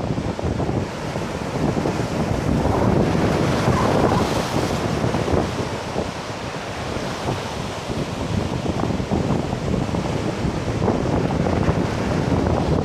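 Heavy typhoon surf breaking and washing up the beach, with gusting wind buffeting the microphone; a larger wave crashes and hisses about three to five seconds in.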